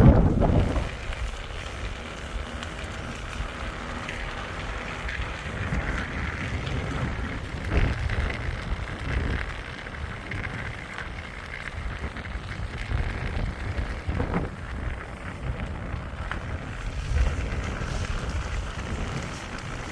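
Wind buffeting the microphone: an uneven low rumble that swells and fades over a steady hiss.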